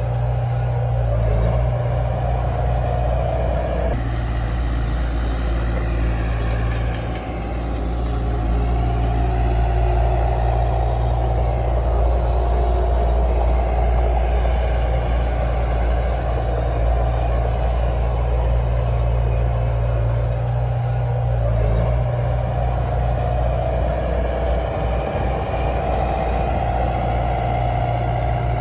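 Heavy diesel engine of earthmoving machinery running steadily, its pitch dipping and picking up again a few times as the load changes.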